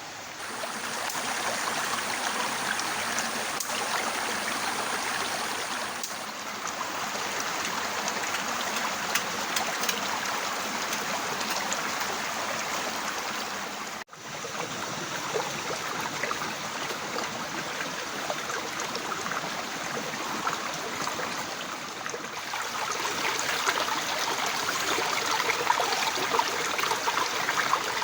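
Heavy rain falling steadily, a dense hiss of many drops. It cuts out for an instant about halfway through, then carries on.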